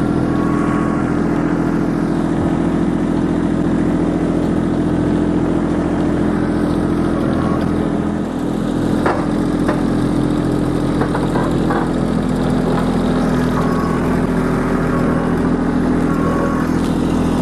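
Kubota LX2610 compact tractor's three-cylinder diesel engine idling steadily while it warms up after a cold start, with a few light clinks about halfway through.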